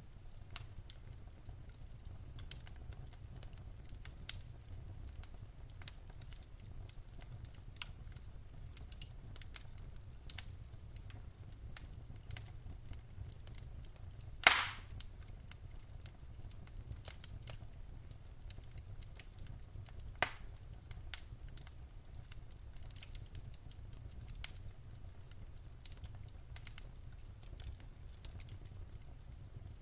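Wood fire in a fireplace crackling: scattered small snaps and ticks over a low steady rumble, with one loud pop about halfway through and another smaller pop a few seconds later.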